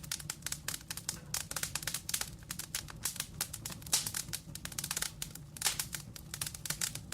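Log fire in a fireplace crackling: dense, irregular pops and snaps from the burning wood over a low steady rumble of flame.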